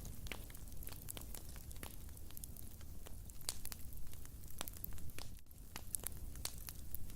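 Fire in a fireplace crackling steadily, with frequent irregular sharp pops and snaps over a low rumble of the flames.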